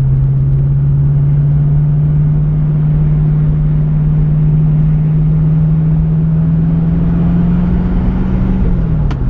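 Pontiac Firebird's engine pulling steadily while driving, its note slowly climbing as the revs rise, then dropping quickly near the end as the revs fall.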